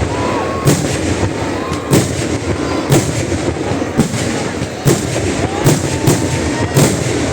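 Festival fireworks going off: about eight sharp bangs, roughly one a second, over a continuous rumble and crackle, with a few faint short rising whistles.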